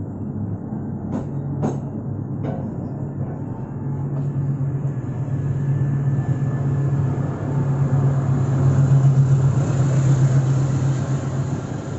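Gaya Baru Malam Selatan passenger train running on the rails, a steady low drone with a few sharp clicks in the first few seconds, growing louder near the end.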